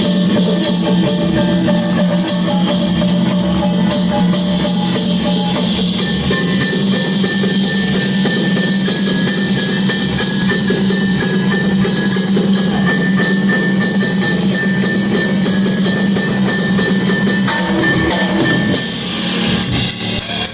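Live rock band playing loud, with the drum kit prominent over a held note; the full sound thins out shortly before the end.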